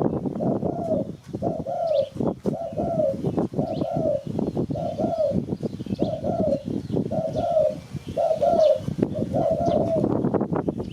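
Spotted dove cooing: a long run of short, arched coos repeated roughly every two-thirds of a second, with crackling clicks among them.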